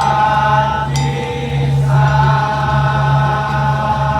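Madurese ul daul (musik tong-tong) ensemble music: long held melody notes over a steady low drone, with a short break in the melody about a second and a half in.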